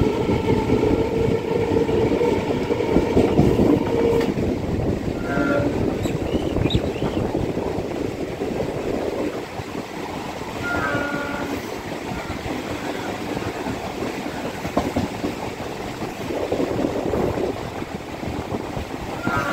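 Chennai suburban EMU train running on the rails, heard from on board: a steady rumble and wheel clatter. A long held horn tone sounds for the first four seconds, and short tones come about five, eleven and nineteen seconds in.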